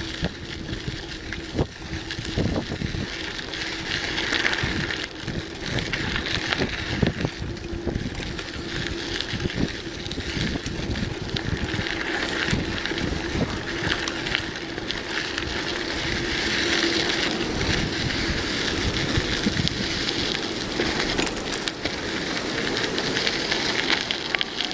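Wind buffeting the microphone over a steady rolling noise while riding, with a faint hum running underneath.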